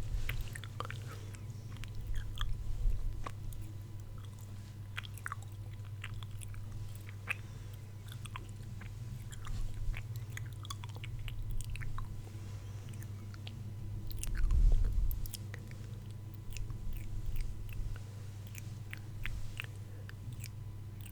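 ASMR mouth sounds close to the microphone: scattered wet clicks and smacks. A few soft low thumps stand out, the loudest about two-thirds of the way through, over a steady low hum.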